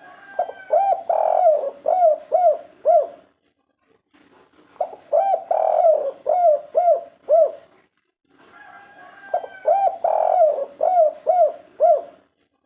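Spotted dove (derkuku) cooing vigorously: three phrases about four and a half seconds apart, each a drawn-out coo followed by a quick run of short hooked notes.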